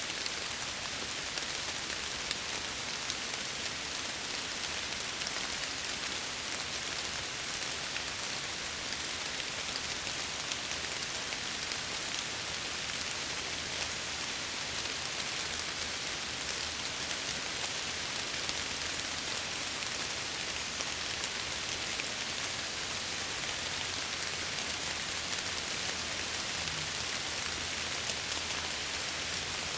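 Steady rain falling and pattering against window glass, an even hiss with faint scattered drop ticks.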